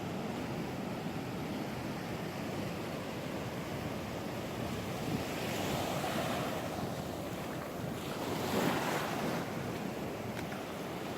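Ocean surf breaking on a beach, a steady wash with one wave swelling about halfway through and a louder one later on. Wind buffets the microphone.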